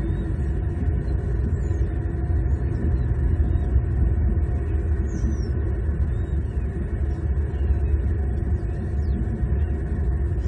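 A steady low rumble of outdoor background noise picked up by the nest-cam microphone, with faint, short, high bird chirps now and then.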